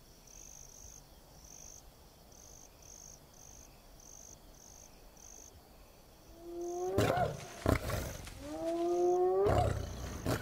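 Crickets chirping faintly at about two chirps a second, then two whooping calls from spotted hyenas in the last few seconds, each rising in pitch.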